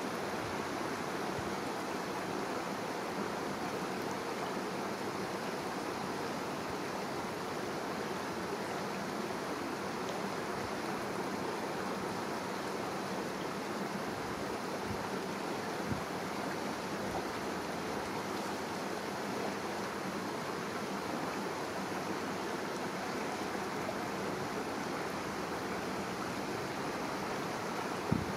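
Steady rush of a shallow river flowing, with two brief faint knocks, one about halfway through and one near the end.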